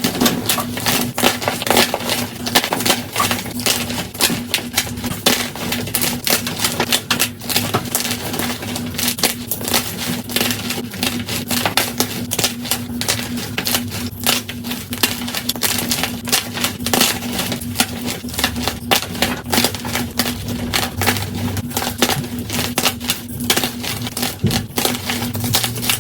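Blocks of gym chalk being crushed by hand, a fast, dense run of crunching and crackling, played at double speed. A steady low hum runs underneath.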